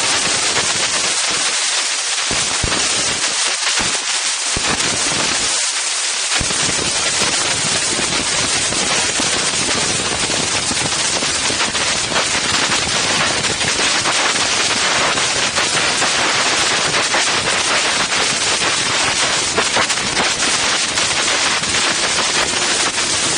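Strong wind buffeting the microphone of an Insta360 One X camera: a loud, steady rush full of rapid crackling.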